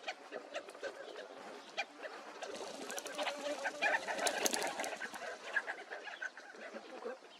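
Several birds giving many short clucking and chattering calls, busiest and loudest in the middle.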